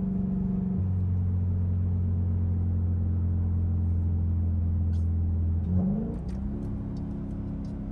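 Straight-piped Dodge Durango's exhaust droning steadily under way. About six seconds in the pitch climbs briefly and the drone eases off.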